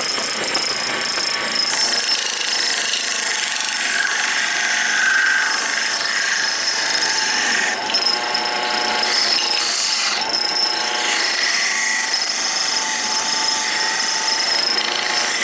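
Wood lathe running with a cutting blade held against the spinning wooden blank, a steady scraping hiss with a thin high whine over it. The pitch of the cut shifts now and then as the blade is worked from side to side in the groove to part the piece off.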